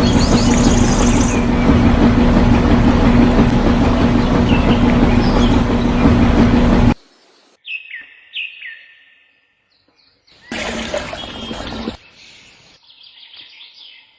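Small birds chirping, first over a loud steady mechanical hum that cuts off abruptly about halfway through; then the chirps, short falling calls, continue alone with one brief burst of noise.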